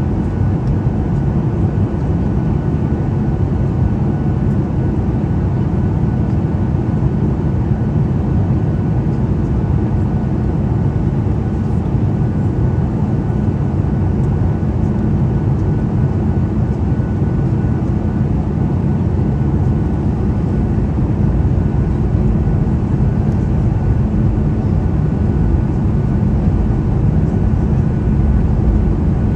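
Steady cabin noise of a passenger jet: a loud, even rumble of engines and airflow, with a faint steady whine above it.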